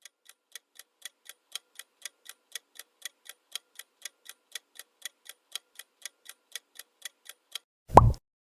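Countdown clock ticking steadily, about four ticks a second with a slight tick-tock alternation, timing the guessing period. Near the end a single loud, short sound effect with a quickly falling pitch cuts in.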